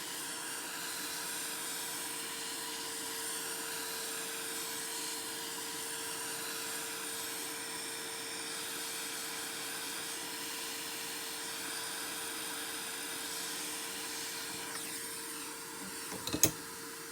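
A steady hiss with a faint steady hum under it, then a sharp click near the end.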